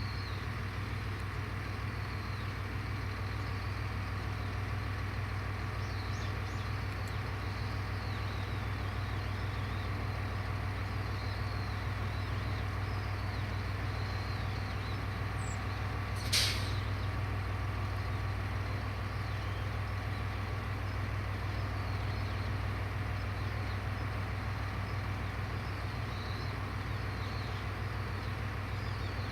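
Diesel railcar idling at a station with a steady low engine hum, and a short sharp hiss of released air about halfway through. Faint bird chirps come and go.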